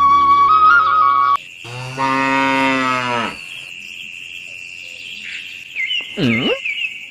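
Cow mooing once: a single low moo of about two seconds whose pitch drops at the end. Flute music cuts off just before it, and high chirping whistles follow near the end.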